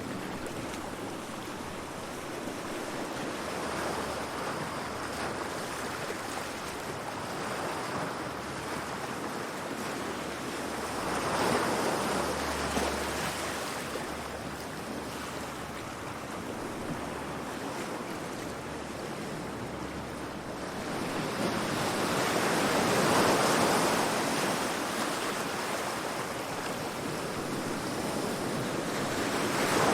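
Calm sea waves washing onto the shore: a steady wash of surf that swells louder as a wave breaks, twice, about a third of the way in and again past the middle, with another building at the end.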